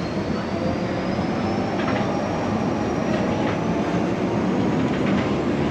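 Montreux–Rochers-de-Naye electric cog railway train running under a steady rumble, its motor whine rising slowly in pitch as it gathers speed, with a few light knocks from the running gear.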